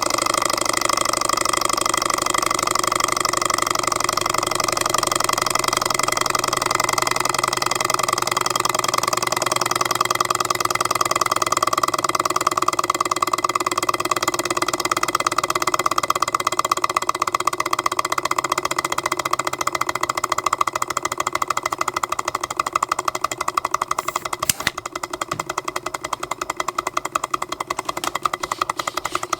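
Jabama A500 model hot-air Stirling engine running steadily, its moving parts making a fast, even clatter, with a single sharp click about three-quarters of the way through.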